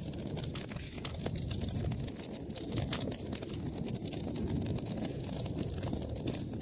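Wood fire burning in a fireplace: a steady low rumble of flames with constant small crackles, and one louder pop about three seconds in.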